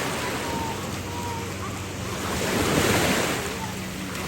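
Waves washing at the shore under wind buffeting the microphone, swelling about three seconds in.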